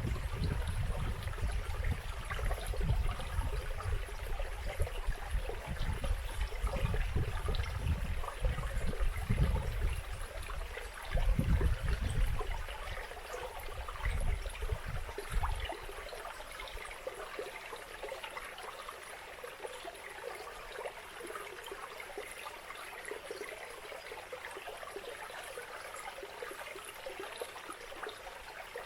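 Steady rushing of a flowing stream, with gusts of wind buffeting the microphone as a low uneven rumble through the first half that dies away about halfway through.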